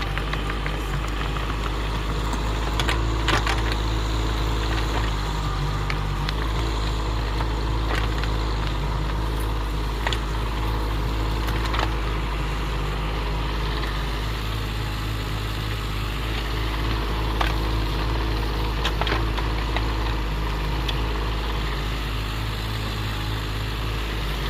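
Excavator engine running steadily, with scattered sharp knocks and clanks.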